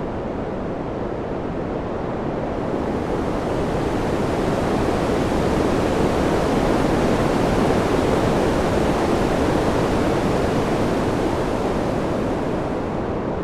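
Wind: a steady rush that swells slowly to a peak around the middle and eases off again near the end.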